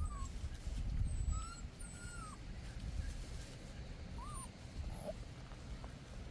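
A few short, high whining animal calls, each briefly rising and bending in pitch, over a steady low rumble.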